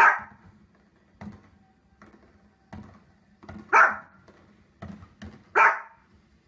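A dog barking: three loud barks, one at the start, one nearly four seconds in and one shortly after, with fainter short sounds between them.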